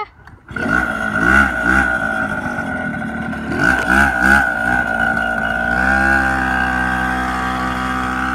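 An engine revving in short blips, then running steadily.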